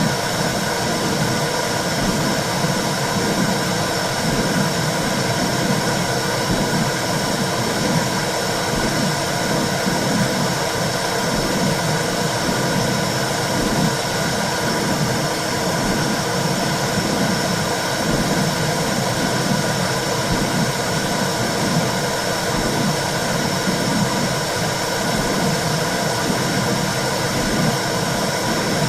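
Womb sound for soothing a baby: a steady whooshing noise with a low, regular pulse beating under it.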